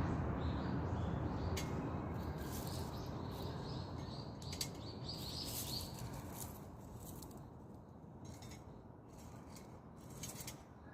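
Dry perilla branches burning in a Solo Stove wood stove: a steady rush of flame that gradually gets quieter, with scattered crackles and pops.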